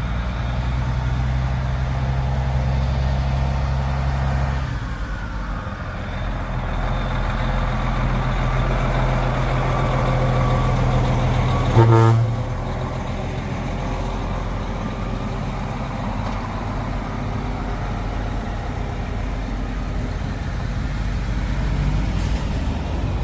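Heavy truck engine running with a deep steady drone that shifts about a fifth of the way in and builds again. A short, loud horn blast sounds about halfway through, and then the engine settles to a lower steady rumble.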